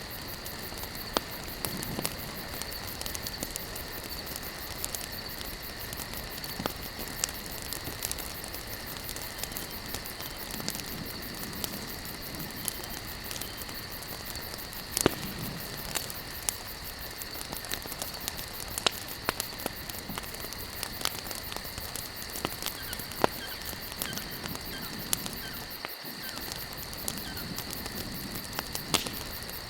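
Campfire of burning logs crackling: irregular sharp pops and snaps, a few every second, over a steady hiss. A steady high-pitched chirring runs underneath.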